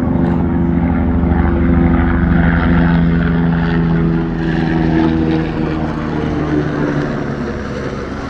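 Steady engine drone with an even, unchanging pitch, easing off slightly toward the end.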